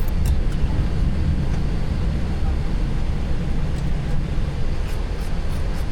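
Steady low rumble heard in a Boeing 737-800's cockpit as the airliner taxis after landing, with a few faint ticks near the end.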